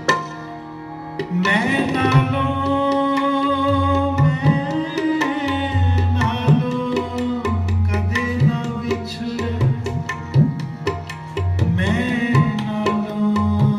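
Shabad kirtan music: tabla playing a steady pattern with deep bass strokes from the bayan, under a held, sustained melody. The music drops back briefly at the start and swells again about a second and a half in.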